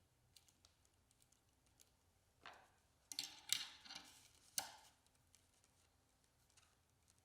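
A metal hanging hook being twisted by hand into the top of a cedar birdhouse: mostly quiet, with a cluster of short clicks and scrapes between about two and a half and five seconds in.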